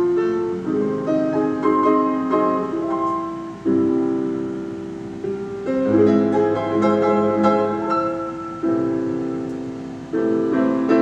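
Piano music: chords struck one after another, each left to ring and fade.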